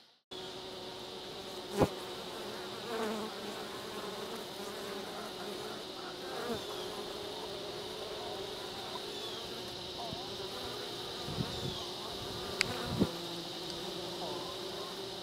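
Honeybees buzzing around a top-bar hive: a steady hum with individual bees sweeping past close by. A few sharp clicks, the loudest about two seconds in and two more near the end.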